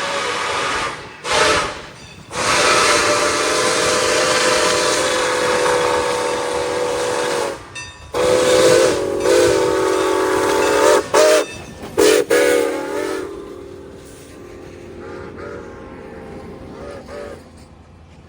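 Locomotive air horn sounding a series of blasts: a long blast, a short one, a long blast of about five seconds, then several more long and short blasts. After about 13 seconds it drops to a weaker rumble with a few faint toots.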